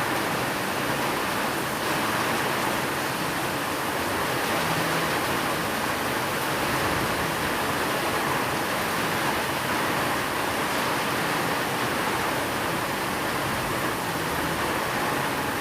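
Steady rain falling as a dense, even hiss, with no single drops or thunder standing out.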